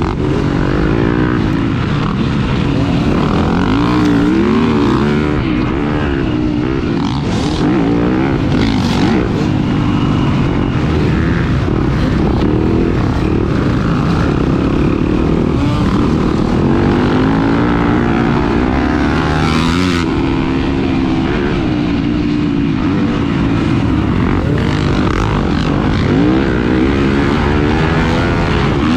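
Off-road racing motorcycle engine under hard riding, its revs rising and falling again and again as the throttle is worked and the gears are shifted.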